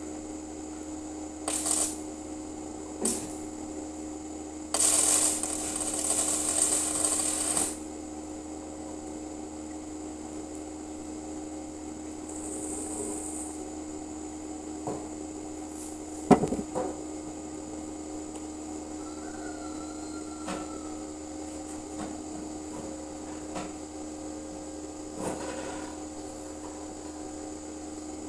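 Arc welding on steel grate bars: short bursts of arc crackle, the longest about three seconds, over a steady electrical hum. A single sharp metal clank comes about halfway through.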